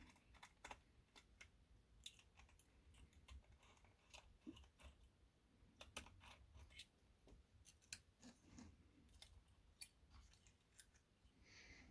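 Faint, scattered small clicks and taps of a screwdriver and small plastic parts being handled while the rear coupler box is removed from a model locomotive.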